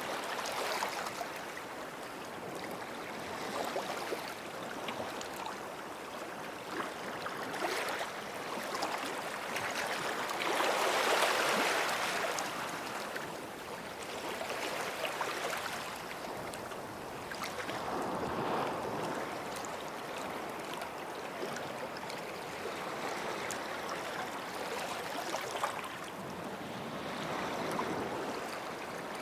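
Small sea waves breaking and washing up a sandy beach, each surge swelling and falling away every few seconds, the biggest about a third of the way in.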